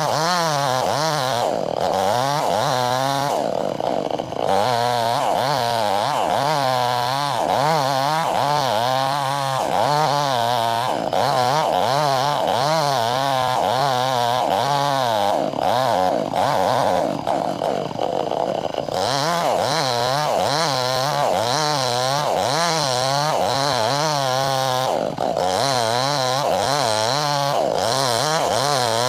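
Chainsaw running at full throttle while ripping a log lengthwise, its engine pitch wavering up and down continuously as the chain loads and frees in the cut, with a few brief dips.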